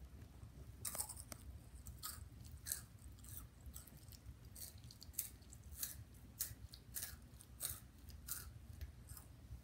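Crunchy cheesy chips being chewed close to the mouth: irregular crisp crunches, about one or two a second, over a faint steady low hum.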